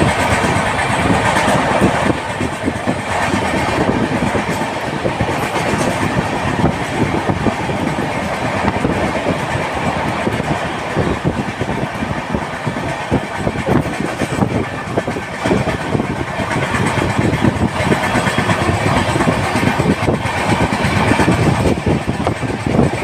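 Train in motion: a loud, continuous rumble and rattle of rail wheels and carriages.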